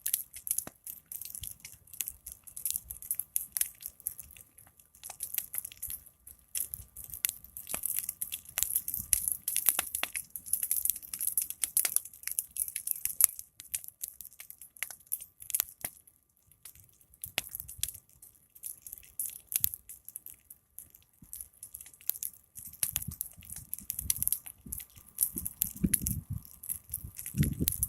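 Big wood fire crackling, with many sharp irregular pops and a hissing of the flames; a low rumble joins in during the last few seconds.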